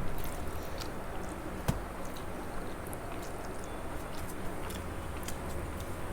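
Close-up eating sounds: scattered small, wet clicks and squishes of chewing a mouthful of rice and curry, with one sharper click about one and a half seconds in.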